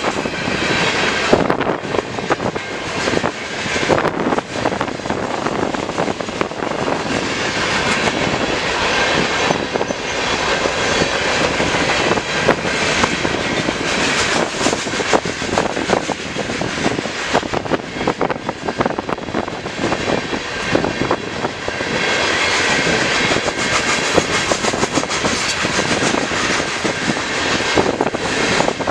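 Eastbound CN manifest freight train rolling past close by: steady steel wheel-on-rail noise with a constant run of clicks and clatter from the cars.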